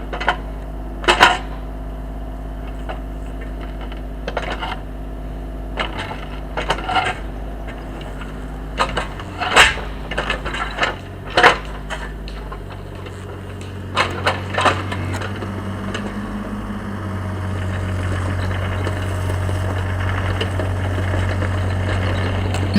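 A loader's engine running steadily under a string of sharp clanks and knocks, spaced every second or so through the first half. From a little past halfway the engine note changes and grows steadily louder as the machine works harder.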